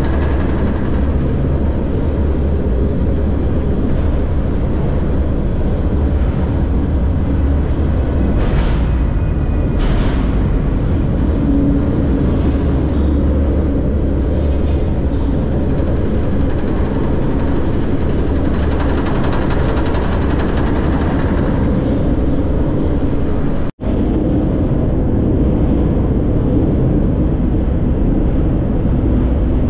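Freight train rolling along, heard from inside an open boxcar: a loud, steady rumble and rattle, with two sharp clanks about nine and ten seconds in. The sound drops out for an instant about two-thirds of the way through.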